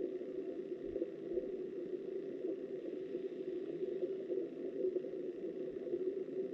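Steady, muffled rush of flowing river water, heard underwater through a camera's waterproof housing.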